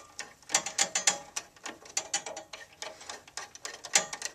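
Long straight-blade screwdriver working aluminum screws into the metal housing of a Nelson horse waterer: a run of irregular metallic clicks and scrapes.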